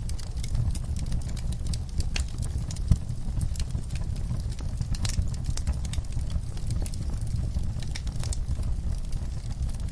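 Wood fire in a fireplace crackling, with frequent irregular sharp pops and snaps from burning logs over a steady low rumble of the flames; one pop about three seconds in stands out.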